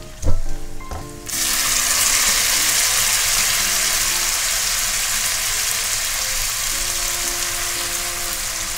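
Spaghetti put into a hot wok of frying diced bacon and garlic sets off a sudden loud sizzle about a second in, which then slowly dies down. A short thump comes just before it.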